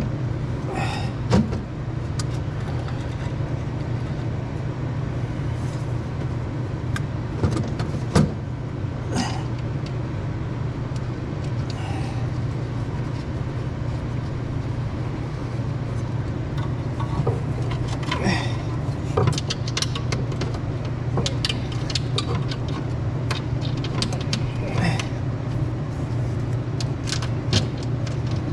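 A machine running with a steady low hum, with scattered clinks and knocks of tools and metal parts being handled.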